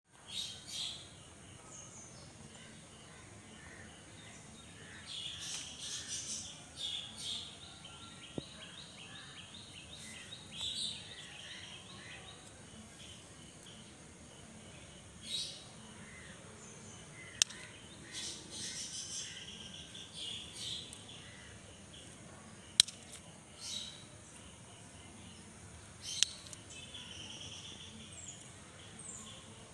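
Birds chirping and calling on and off, including a quick run of repeated notes, with a few sharp clicks in the second half.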